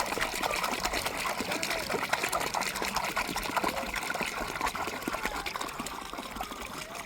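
Water running and splashing, a steady rushing sound with many small ticks and patters in it.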